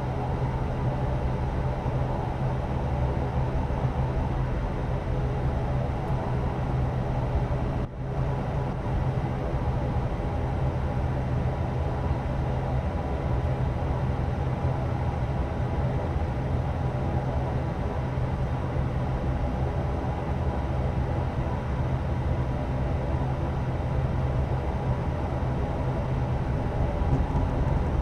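Cabin noise of an ATR turboprop airliner on the ground before takeoff: the propeller engines running with a steady low hum and a droning layer of tones, dipping briefly about eight seconds in.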